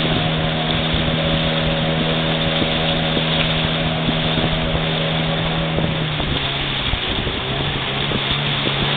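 Motorboat engine running steadily under way, over a rush of wind and water. About six seconds in, the engine note drops away, then picks up again at a slightly lower pitch.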